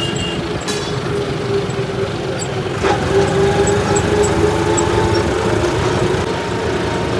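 Engine running steadily: a continuous hum over a rushing noise, with a few light clicks.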